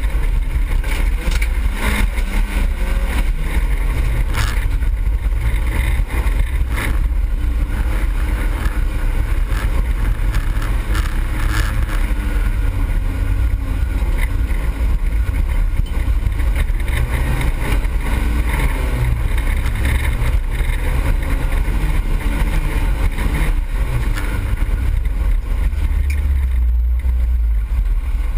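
Autocross car's engine running hard, heard inside the cabin, its revs rising and falling with throttle and gear changes. Occasional knocks from the car jolting over the rough dirt track.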